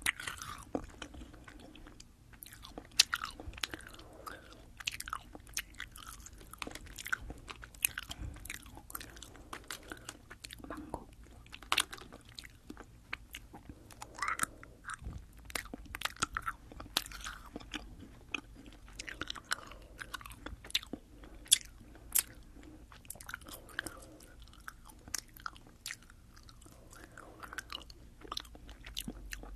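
Close-miked chewing of soft Fini gummy candies: sticky, wet mouth sounds with irregular sharp clicks and smacks, several a second.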